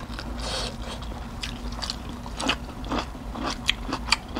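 Close-up eating sounds: chewing and biting, with a string of short crunches and wet mouth clicks, and a brief rustling hiss near the start.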